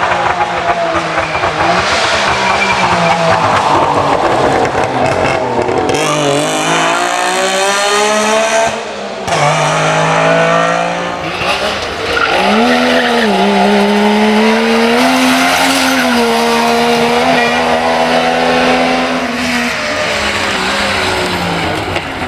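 Wartburg 311 rally car's three-cylinder two-stroke engine revving hard through bends, its pitch rising and falling with throttle and gear changes. The sound changes abruptly several times as one pass cuts to the next.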